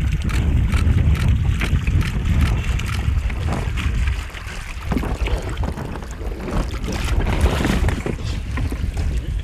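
Steady low rumbling of moving water, with crackling and scattered clicks, dipping briefly about four seconds in.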